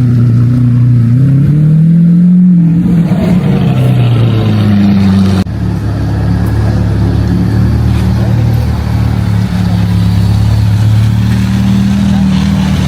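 Loud car engine running, its pitch rising over the first couple of seconds and then easing back. About five seconds in it changes abruptly to a lower, steadier note.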